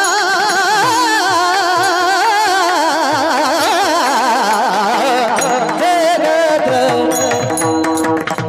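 A kirtan singer holding a long, high note with a wide, wavering vibrato over a steady drone, with pakhawaj drum strokes underneath. About five seconds in the voice fades back, leaving the drone, the drum and sharp clicks near the end.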